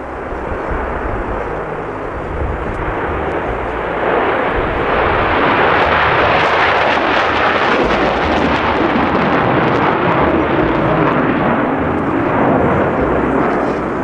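Jet noise of Concorde's Olympus 593 afterburning turbojets: a loud, dense rush that swells about four seconds in and then holds steady.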